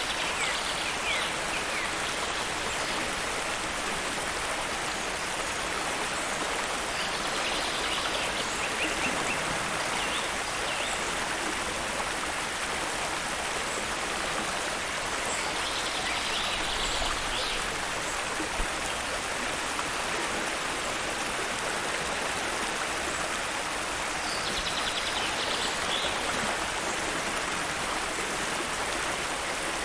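Stream water rushing steadily. A bird gives a short high call about every eight to nine seconds, four times.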